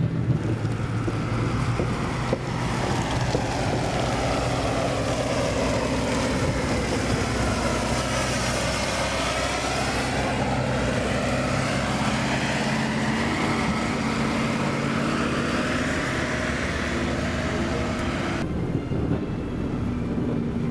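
A motor vehicle's engine running steadily under road noise, with a hiss that sweeps down and back up in pitch around the middle. Near the end the hiss cuts off abruptly, leaving the engine hum.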